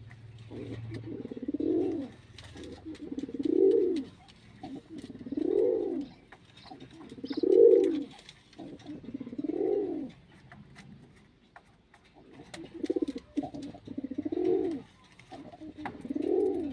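Pigeon cooing: a low coo that rises and falls, repeated about every two seconds with a short pause partway through.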